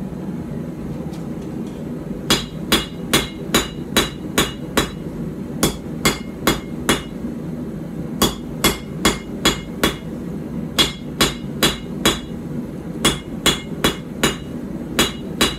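Forging hammer striking a hot steel puukko blade on the anvil during rough forging, in runs of steady blows about two a second with short pauses between runs. The first blow lands about two seconds in, over a steady low hum.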